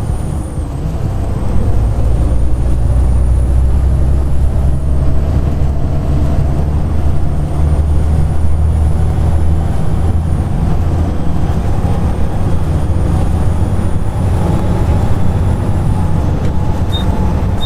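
Volvo B7TL double-decker bus under way, its diesel engine giving a heavy low rumble with a high hoover-like whine that climbs slowly and drops back sharply three times.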